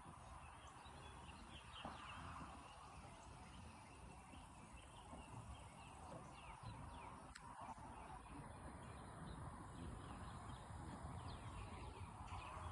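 Faint outdoor ambience with many short, quick bird chirps scattered throughout, over a low steady rumble.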